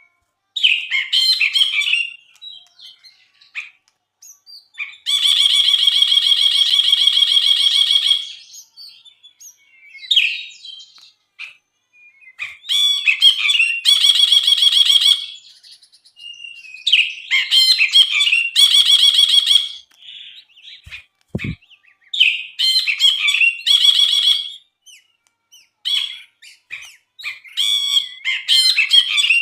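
Brinji (a bulbul) singing: repeated phrases of short chattering notes, each run straight into a long, rapid buzzing trill, coming round about every four to five seconds. A brief low thump about two-thirds of the way through.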